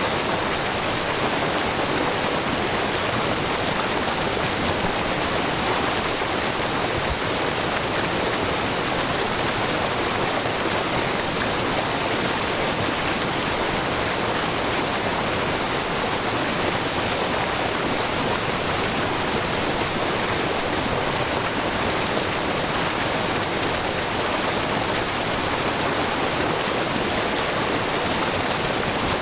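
Shiraito Falls, a low, wide curtain of spring water streaming over a rock face, and the brook below it: a steady, even rush of falling and running water.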